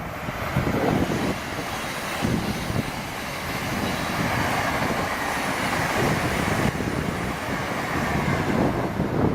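A train passing along the line, a steady rushing noise that builds in the first second and holds.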